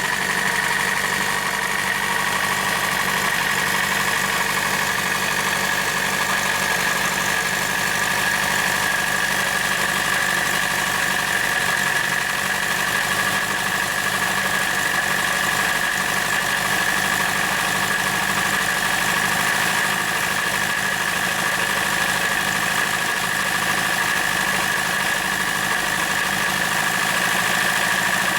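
Model engine running steadily at an even speed: a constant mechanical whirr with a steady high-pitched whine over it.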